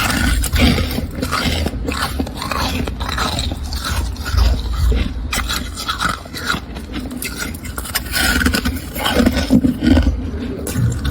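Freezer frost being scraped, a rapid run of rough scraping strokes.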